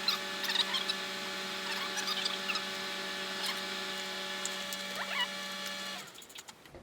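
Electric power tool's motor running at one steady pitch after spinning up, with scattered metallic clicks and rattles over it; it cuts off about six seconds in.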